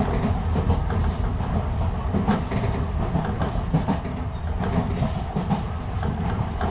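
Enshu Railway electric train running along the line, heard from inside at the front behind the driver's cab: a steady low running noise of wheels rolling on the rails, with scattered short clicks.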